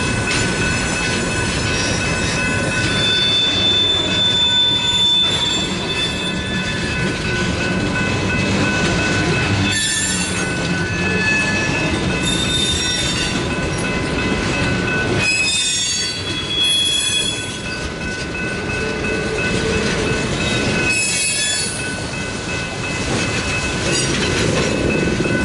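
Tank cars of a Canadian Pacific oil train rolling slowly through a rail yard: a steady rumble of steel wheels on rail with a constant thin, high-pitched wheel squeal. Sharper bursts of squealing come about ten, sixteen and twenty-one seconds in.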